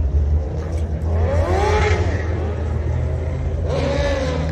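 A car engine rumbling steadily, with two swells where the engine note rises and falls: one about a second in, the other near the end.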